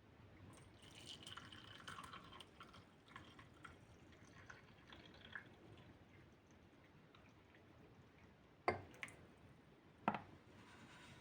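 Liquid pouring and dripping faintly for a few seconds, then two sharp knocks about a second and a half apart.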